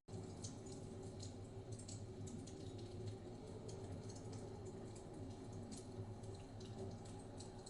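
Wood fire crackling with irregular small pops and snaps, over a low steady rumble of blizzard wind. The sound cuts out for an instant at the very start.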